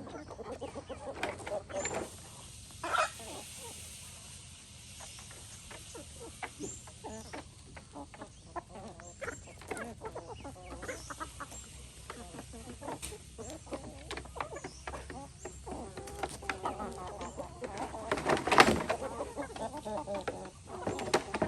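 Free-range chickens clucking as a flock, with many short taps and knocks scattered throughout and a louder burst of activity near the end.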